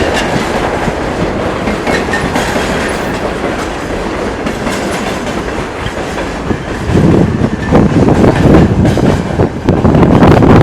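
Freight train's wagons rolling past, wheels clattering rhythmically over the rail joints, with a heavy rumble that grows louder about seven seconds in.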